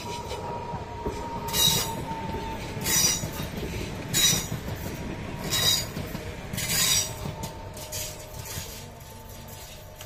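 PKP Intercity electric multiple unit passing at speed: a steady rumble of wheels on rails with sharp, hissing high-pitched bursts about every second and a half, growing quieter near the end as the train moves away.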